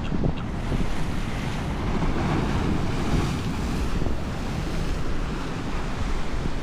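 Atlantic Ocean surf breaking and washing up the shore, a steady rush that swells about two seconds in, with wind buffeting the microphone.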